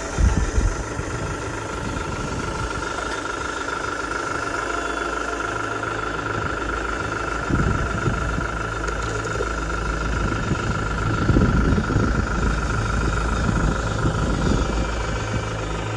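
Scale Land Rover Defender RC crawler driving, with a steady engine-like drone and a thin whine. A short loud rumble comes right at the start, and louder rumbles come about halfway through and again a few seconds later.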